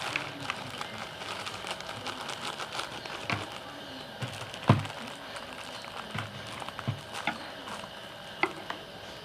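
Eating with chopsticks: a scatter of small irregular clicks and taps, with one louder knock about halfway through.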